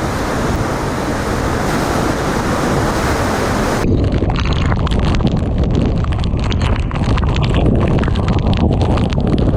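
Typhoon eyewall wind and torrential rain: a loud, even roar of wind and lashing rain and spray that changes abruptly about four seconds in to a deeper wind rumble buffeting the microphone, with rapid crackling hits.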